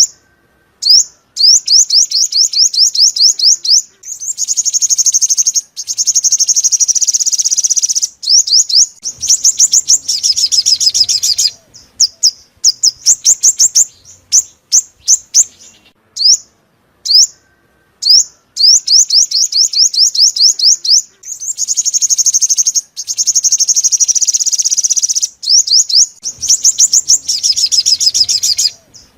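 Sunbird song, the purple-throated, yellow-bellied bird sold as the 'five-colour' sunbird: fast runs of high, upward-flicking chirps, in bouts of one to several seconds broken by short pauses.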